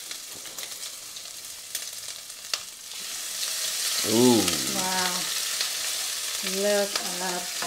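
Crushed ginger, garlic and green chilli sizzling in hot mustard oil with whole spices in a frying pan, stirred with a wooden spatula. The frying hiss grows louder about halfway through, with a few light clicks before that.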